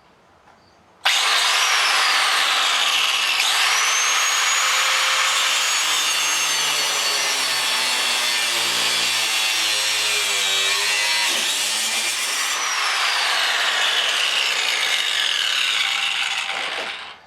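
Thin zip-cut cutoff wheel cutting through the steel door hinge pins: it starts suddenly about a second in, runs loud and steady with a shifting whine, then winds down and stops near the end.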